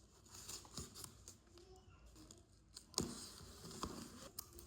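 Hands handling and opening a gift package: faint scattered clicks and rustles, with a sharper knock about three seconds in and a couple more after it.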